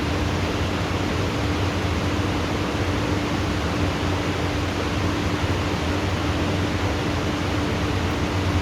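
Heavy tropical rain falling steadily, an unbroken hiss with no thunderclaps, over a steady low hum.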